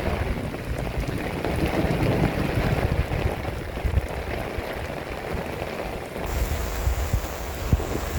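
Heavy rain pouring steadily, with wind buffeting the microphone from about six seconds in.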